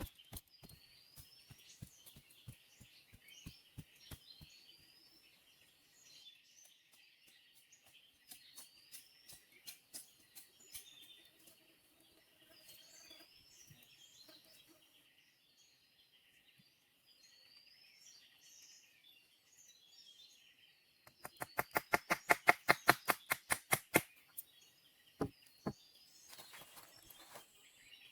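Rainforest ambience: a steady high insect drone, with short rising bird calls repeating every second or two and scattered clicks. Near the end a fast run of loud clicks lasts about three seconds.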